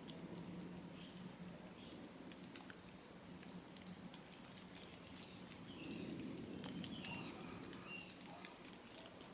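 Faint outdoor ambience: small birds chirp now and then, with scattered light ticks and rustles over a steady low hum.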